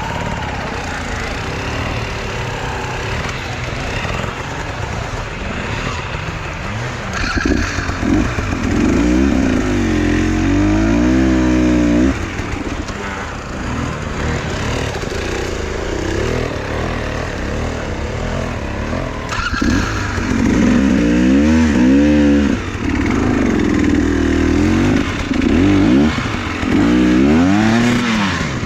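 Enduro motorcycle engine working under load, the revs repeatedly rising and falling with bursts of throttle. The throttle bursts are loudest in two stretches, from about a third of the way in and again through the last third.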